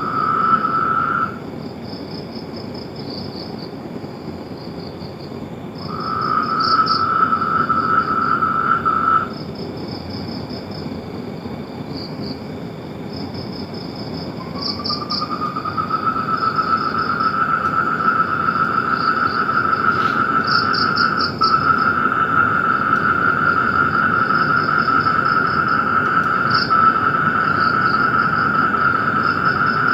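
A night chorus of frogs and insects: a high, fast pulsed trilling runs on throughout, while a lower steady trill sounds briefly at the start, again for about three seconds, then starts with a slight rise in pitch about halfway through and carries on to the end.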